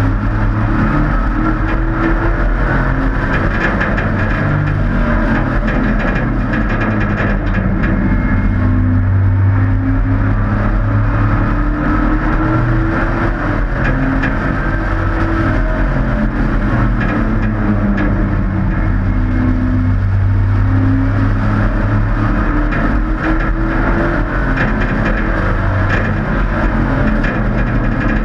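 Hobby-class race trucks' engines running hard around the oval. Their pitch rises and falls over and over as they accelerate down the straights and lift for the turns.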